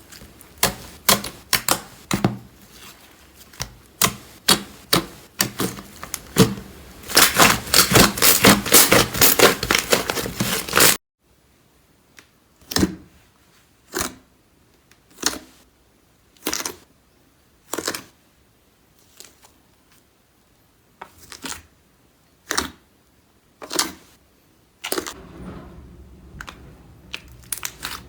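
Slime being squeezed and poked by hand, its trapped air pockets popping with sharp clicks. The popping comes fast and crackling for several seconds, then stops abruptly and gives way to single pops about once a second, growing busier again near the end.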